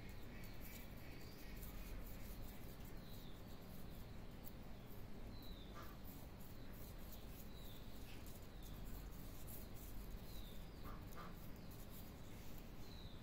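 Faint background with a bird repeating a short, high, falling chirp every second or two.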